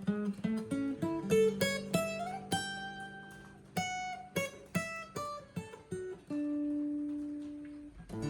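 Acoustic guitar playing alone, no singing: a run of single picked notes over a held bass note, then a few notes left ringing near the end.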